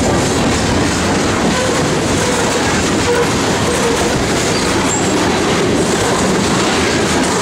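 Freight train of grain cars rolling past, a loud, steady rumble of wheels on rail.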